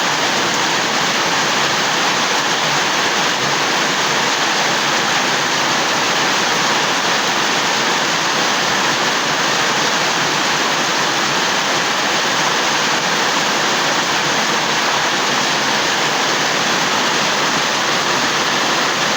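Steady rain falling, an even, loud rushing hiss with no breaks.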